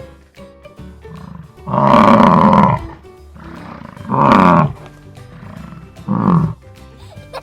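Bison bellowing: three deep calls, the first about a second long and the last the shortest, over light background music.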